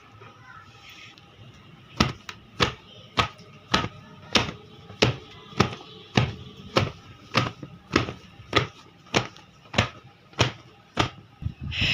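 Steady rhythmic slapping of something being beaten by hand: about sixteen sharp strikes a little over half a second apart, starting about two seconds in, with a quick flurry near the end.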